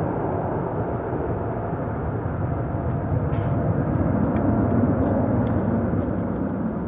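Jet engines of a Boeing 777-200ER (GE90s) running at high power as the airliner climbs away after a touch-and-go: a steady rumbling roar that swells slightly about halfway through.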